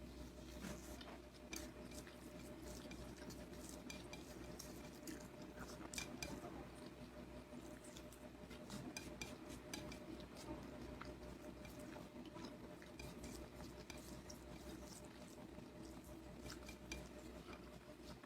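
Faint eating sounds: scattered soft clicks and clinks of food being handled on a plate, over a steady low hum.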